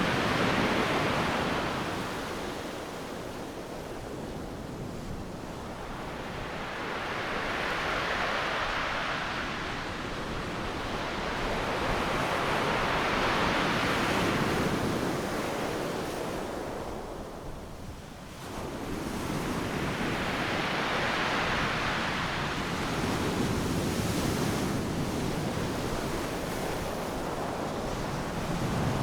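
Ocean surf breaking and washing up the shore, a continuous rush that swells and fades in slow surges several seconds apart, with a brief lull about eighteen seconds in.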